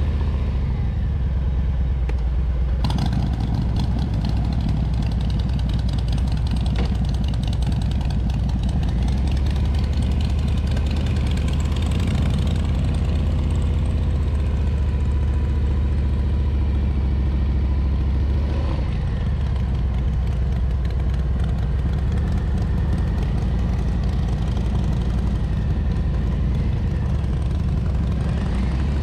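Harley-Davidson Street Bob's V-twin engine running steadily just after being started, a deep, even rumble.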